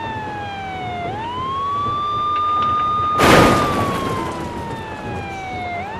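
Police car siren wailing: its tone slowly falls, then sweeps quickly back up and holds, twice over. A short, loud whoosh of noise cuts in about three seconds in.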